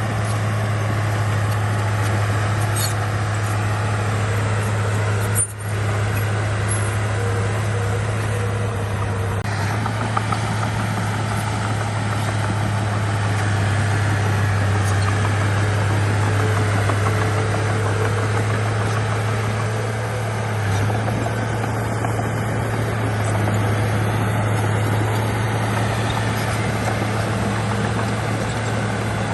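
Heavy diesel engine of earthmoving machinery (bulldozer or dump truck) running steadily under work, a deep constant hum with mechanical noise over it, broken by a brief sharp dip about five seconds in.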